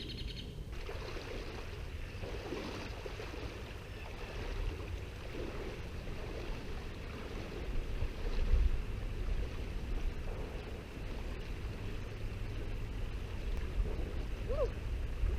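River water flowing: a steady rushing noise, with low rumbles of wind or handling on the microphone about eight seconds in and near the end.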